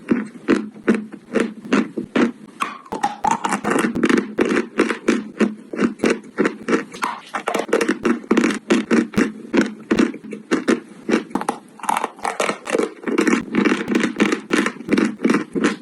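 Chalk being chewed close to the microphone: rapid, repeated crunches, several a second, with no let-up.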